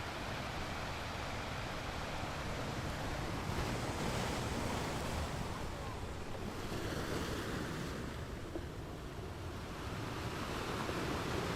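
Ocean waves washing in as a continuous rush of water, swelling about four seconds in and again near the end.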